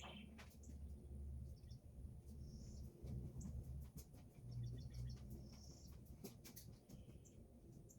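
Quiet outdoor ambience: a bird chirps a few short times over scattered light clicks and taps and a low rumble.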